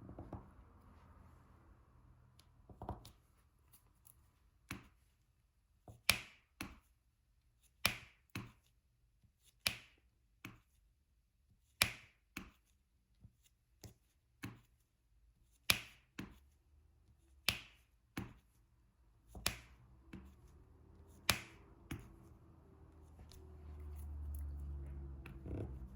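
Diamond painting pen tapping resin drills onto the adhesive canvas: sharp little taps about every one to two seconds, some in quick pairs. Near the end the taps stop and a soft low rustle of handling takes over.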